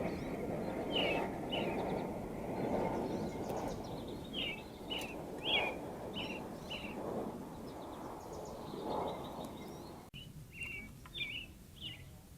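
A songbird calling in a series of short, down-slurred chirps, repeated about once or twice a second, over a low rushing background noise that drops away abruptly about ten seconds in.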